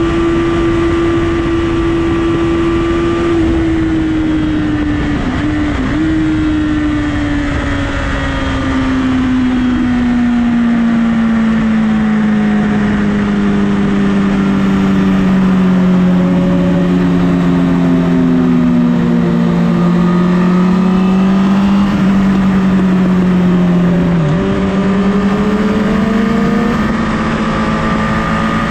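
Honda CBR1000RR inline-four engine running at high revs on the highway. Its pitch eases down slowly over several seconds, then holds steady, with a short dip and pick-up near the end. Other motorcycles' engine notes rise and fall alongside it.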